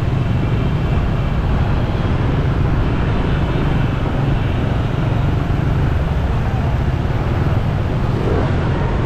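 Steady, loud city street traffic noise, with a heavy low rumble of passing engines.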